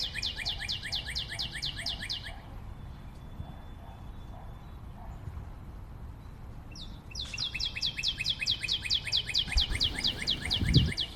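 A bird calling in fast trilled series of short, high, downward-sliding chirps, about seven a second. The first series stops about two seconds in and a second starts about seven seconds in. There is a low steady background hum, and a brief low thump near the end.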